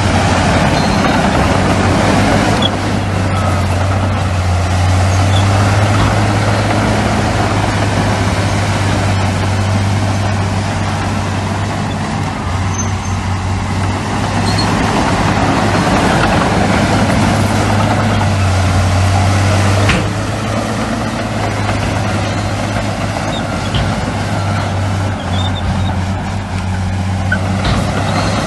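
Heavy diesel earthmoving machinery running steadily, a deep engine drone with a sharp click about twenty seconds in.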